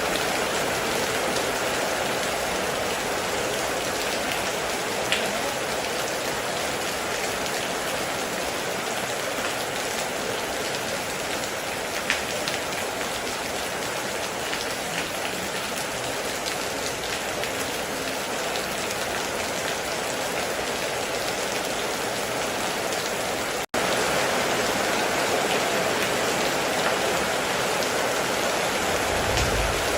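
Heavy rain pouring steadily on a metal roof, with a few sharper drop hits standing out. The sound cuts out for a split second about two-thirds of the way through, and a brief low rumble comes in near the end.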